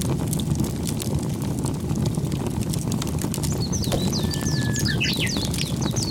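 Steady low rumble of wind on the microphone with scattered light clicks. Past the middle, a bird chirps in a quick run of short, falling high notes.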